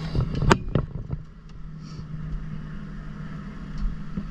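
Kawasaki Ninja 500 parallel-twin engine idling steadily, with a few sharp knocks in the first second.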